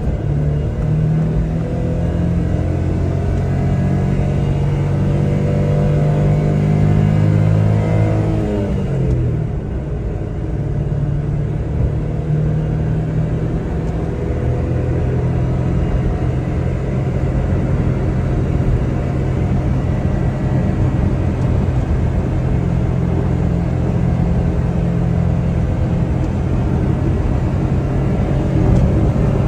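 1999 Suzuki Carry kei truck's small three-cylinder engine driving under way: its pitch climbs steadily for about eight seconds as it accelerates, falls sharply, then runs at a fairly steady pace with road noise underneath.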